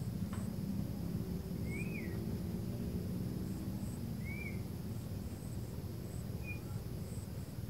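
Cinereous tit giving a few short, arched chirps a couple of seconds apart, over a steady low background hum and faint, high, repeated insect chirps.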